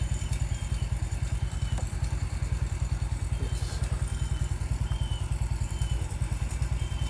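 An engine idling steadily, with an even, rapid low pulse.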